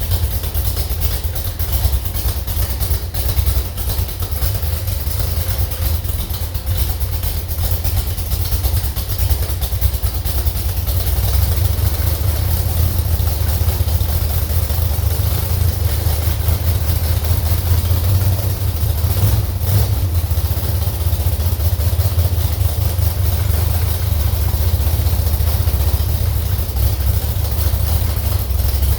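Slover 305 engine running steadily on a test stand, with most of its loud, even sound sitting low.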